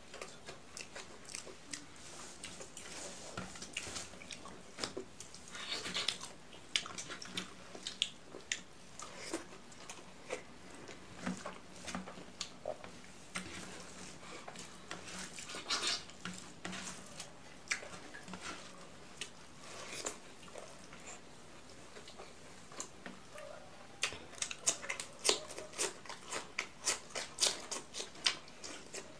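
Eating sounds: chewing and wet mouth smacks as rice mixed with dal curry is eaten by hand, with soft squishing of fingers working the rice on the plate. The smacks come quicker and louder in the last few seconds.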